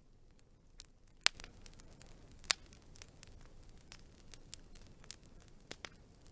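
Wood fire crackling: irregular small snaps and ticks from the burning logs over a faint low rush of flame, with two sharp, louder pops about a second and two and a half seconds in.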